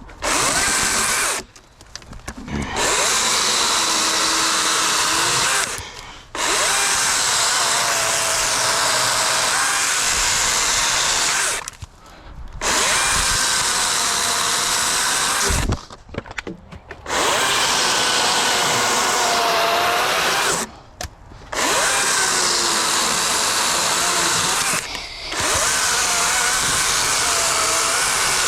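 Dewalt 60-volt brushless battery chainsaw cutting logs in long runs, its electric motor whine wavering in pitch over the chain noise. The trigger is let off briefly about six times, and the saw drops away and then starts up again each time.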